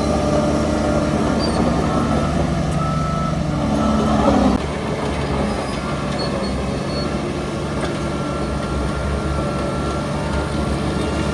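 Diesel engine of heavy earthmoving machinery running steadily under load. It swells about four and a half seconds in, then drops back, with short high beeps and squeals over it.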